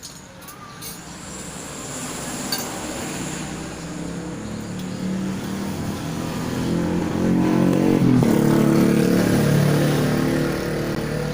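A motor running with a steady pitched hum that grows louder over several seconds, then eases off slightly near the end.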